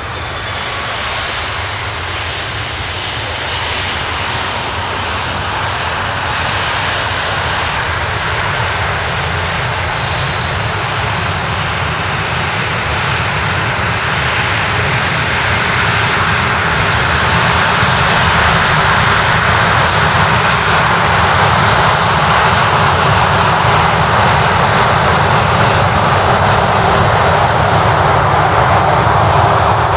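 Aircraft engines running as a steady rushing noise that grows gradually louder across about thirty seconds, with a faint, steady high-pitched whine over it.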